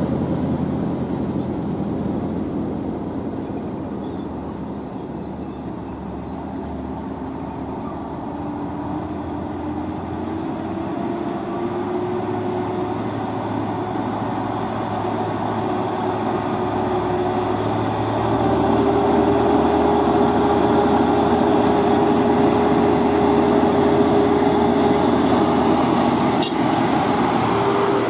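Heavy truck's diesel engine running on the road with tyre and road noise. The engine note climbs slowly, then grows louder from about two-thirds of the way in.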